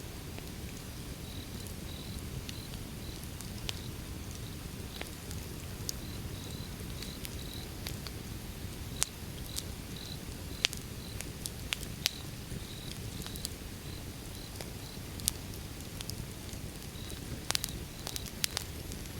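Wood fire burning: a steady low rumble with sharp crackles and pops scattered through, a handful of them louder than the rest. A faint high chirp repeats a couple of times a second underneath.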